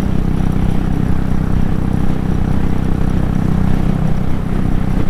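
Royal Enfield 500's single-cylinder engine running steadily at highway speed, a little over 110 km/h, geared taller with a 19-tooth front sprocket, with steady wind rush over the microphone.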